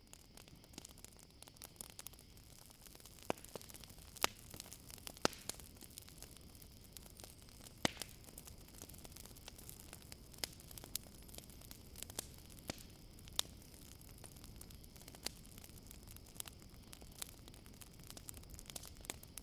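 Campfire crackling, with irregular sharp pops of burning wood, several of them louder, over a low steady fire noise. A faint steady high insect drone, typical of crickets on a summer night, runs underneath.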